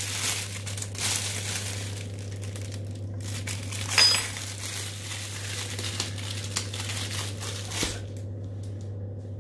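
Crinkly rustling of a spice packet being handled as paprika is shaken into a bowl of meat paste, with one sharp click about four seconds in; the rustling stops near the end, leaving a steady low hum.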